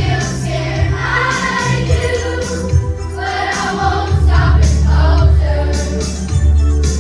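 Children's choir singing a song over instrumental accompaniment with a strong bass line.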